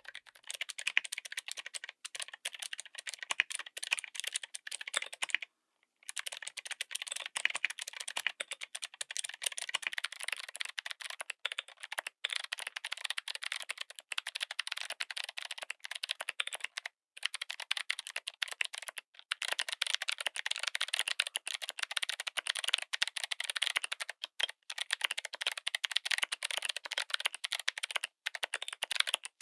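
Fast typing on a mechanical keyboard fitted with clicky switches: a dense run of sharp, bright clicks, broken by a few brief pauses.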